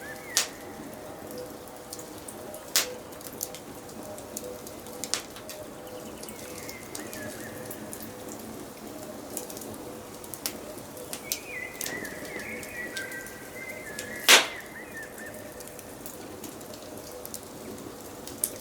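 Wood fire in a fireplace crackling over a steady hiss, with a few sharp pops, the loudest about fourteen seconds in. Birds chirp in the background, most clearly in a short phrase a little after the middle.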